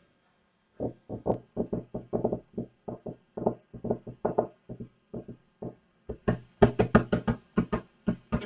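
A rhythmic run of short percussive noises made by a person into a cheap microphone, about three a second. From about six seconds in they come a little faster and sound sharper and brighter.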